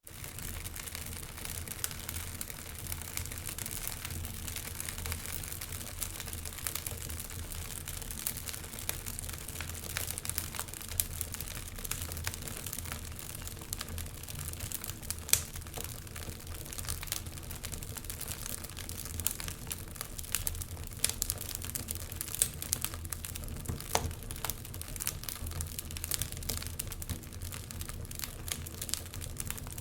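Wood logs burning in a fireplace, crackling steadily with many small snaps and an occasional sharper pop, the loudest about halfway through.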